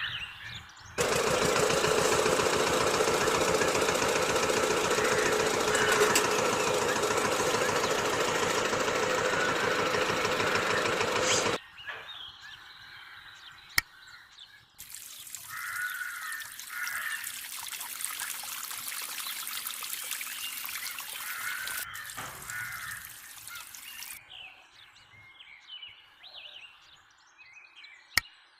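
A loud, fast, even rattle like a small engine running, lasting about ten seconds and ending abruptly. After it come birds chirping and water trickling and pouring, with a hiss from the water for several seconds.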